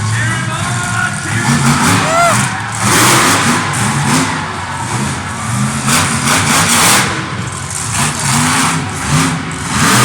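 Monster truck engines revving, their pitch repeatedly rising and falling, with loud surges about two, six and ten seconds in.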